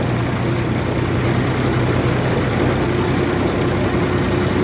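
Heavy diesel engine running steadily at a constant speed, a low even hum with no revving.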